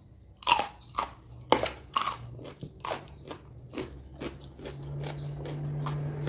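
A person biting into crisp raw lalapan and chewing it: about five sharp, crisp crunches in the first three seconds, then softer chewing. A low steady hum comes in near the end.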